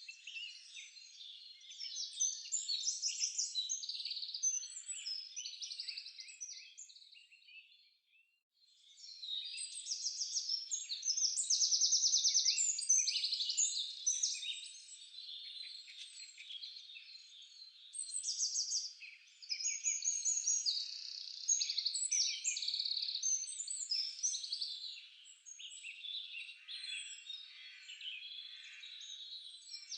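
Several songbirds singing over one another: a dense chorus of high chirps, whistles and quick trills, with a brief lull about eight seconds in.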